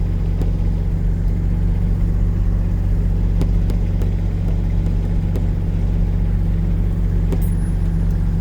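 A vehicle engine idling: a steady, loud low hum that does not change, with a few faint clicks scattered through it.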